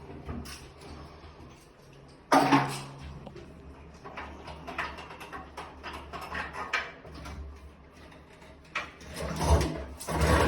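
Scattered knocks and clicks with a sudden loud bang about two seconds in, then water starting to spray and run near the end.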